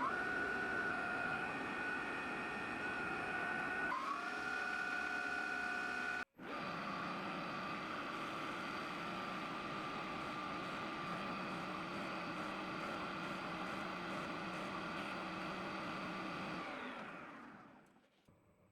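Lathe running steadily with a whine of several held tones while machining a 42CrMo4 chrome-moly steel screw. The tones shift about four seconds in, the sound breaks off sharply once, then resumes and fades out near the end.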